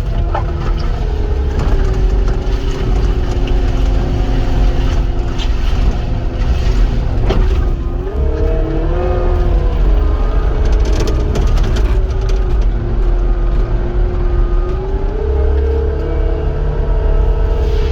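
Cat 259 skid steer running and working: a steady diesel drone with a whine whose pitch rises and falls as the machine works. A sharp knock sounds right at the start, and another about seven seconds in.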